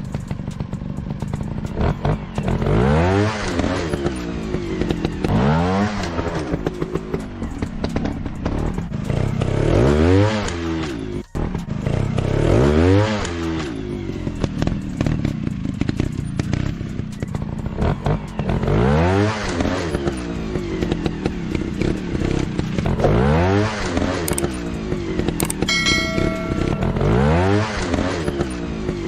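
Motorcycle engine revving up and back down over and over, one rise and fall every three to four seconds, with the engine note carrying on between revs. A short steady beep sounds about three seconds before the end.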